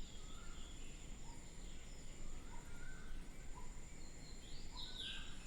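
Faint background noise with a steady thin high tone and scattered short, falling bird chirps, the clearest near the end.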